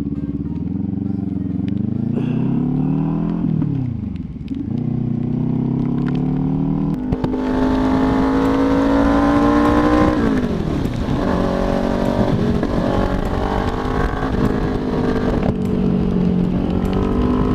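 2018 Kawasaki Ninja 400's parallel-twin engine pulling along on the road under the rushing of wind. Its pitch climbs, drops sharply twice as the rider shifts or eases off, then rises and holds again.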